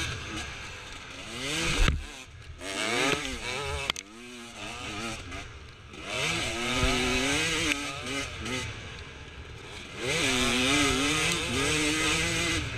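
Enduro dirt bike engine revving hard up a steep hill climb, its pitch rising and falling over and over as the throttle is worked. Two sharp thumps, about two and four seconds in.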